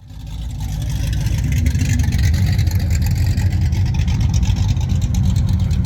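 An engine running with a deep, steady low rumble that fades in over the first second and then holds level.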